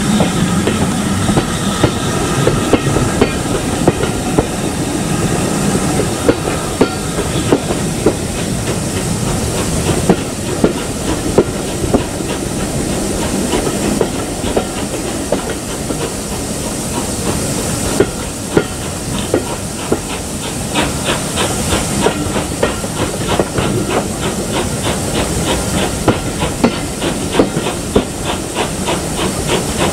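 Steam-hauled train running: wheels clicking regularly over rail joints under a steady hiss of steam. From about two-thirds of the way in, a fast run of sharp ticks is added.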